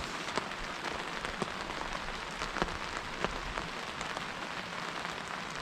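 Steady rain falling, with individual heavier drops ticking sharply every so often.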